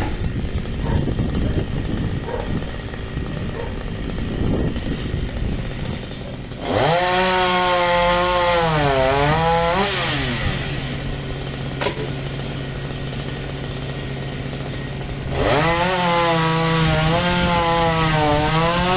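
Chainsaw running at low throttle, then revved hard for about three seconds, its pitch sagging in the middle as it loads up in the cut. It drops back to a steady idle, then is revved and loaded again for the last few seconds.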